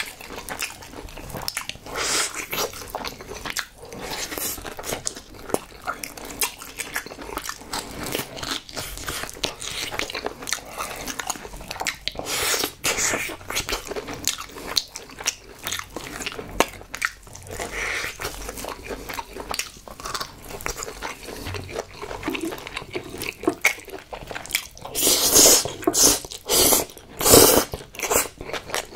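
Close-miked biting and chewing of chewy braised pig's trotters (jokbal): irregular wet clicks and mouth noises, with a louder run of eating sounds near the end.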